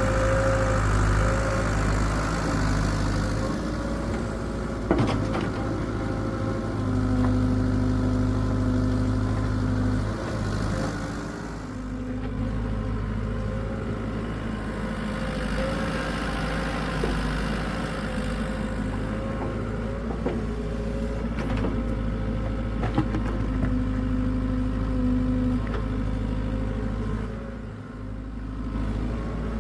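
Hitachi excavator's diesel engine running steadily. A higher steady tone joins in twice for a few seconds, with a few sharp knocks.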